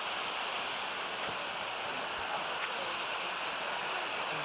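A waterfall on a mountain stream, falling water rushing steadily with no change.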